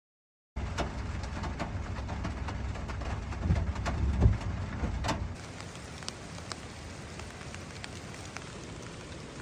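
Rain pattering on a tarp, with scattered heavier drops ticking. About three to four seconds in, a louder low rumble rises and falls; about five seconds in the sound changes abruptly to a softer, steadier patter.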